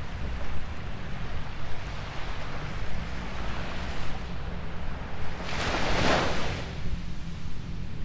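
Sea surf washing onto a sandy beach, with one louder wave breaking about six seconds in, over a steady rumble of wind buffeting the microphone.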